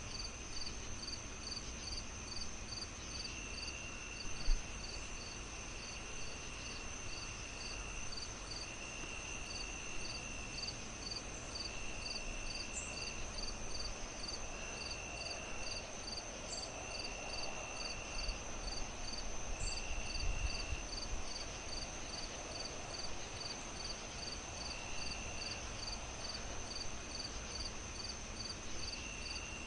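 Crickets chirping in a steady chorus: one pulsing about three chirps a second, another trilling in stretches of about a second every few seconds, over a steady high ringing. A low rumble lies underneath, with one sharp pop about four and a half seconds in.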